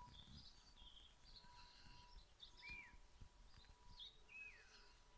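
Faint birdsong: small birds chirping and tweeting here and there, with two short downward-sliding calls, one near the middle and one about four seconds in.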